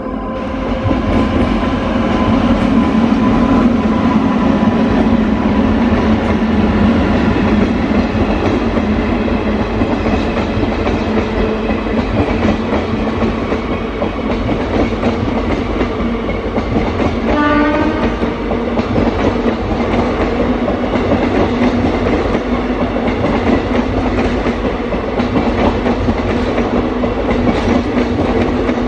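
Passenger train running past at speed: a continuous loud rumble of wheels on rail with clickety-clack. A brief tone sounds about seventeen seconds in.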